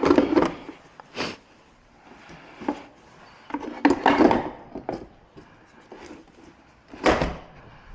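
A series of knocks, bumps and rubbing clatter from objects being handled, with the loudest bumps at the start, around four seconds in and near the end.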